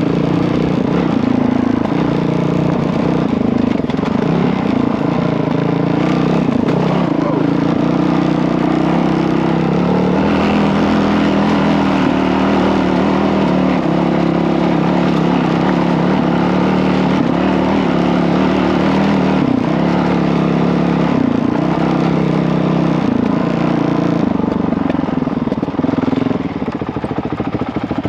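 Honda CRF450L dirt bike's single-cylinder four-stroke engine running under way on a trail, the revs rising and falling as the rider works the throttle, easing off a little near the end.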